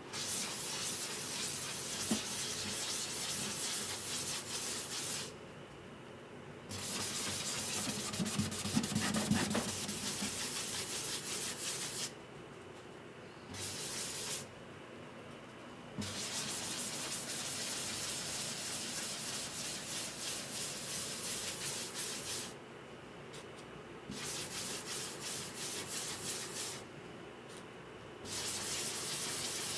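Sandpaper rubbing on the wood of a guitar under repair, in spells of several seconds of quick strokes broken by short pauses.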